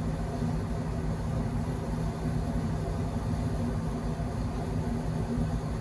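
Steady low drone of a ship's engines and machinery, a constant hum with no change in pitch or level.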